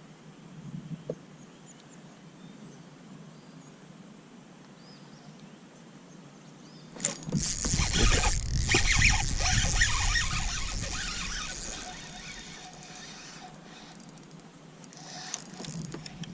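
Water splashing and thrashing for several seconds, starting suddenly about seven seconds in and dying away: a hooked smallmouth bass being brought to the kayak. A few smaller knocks near the end.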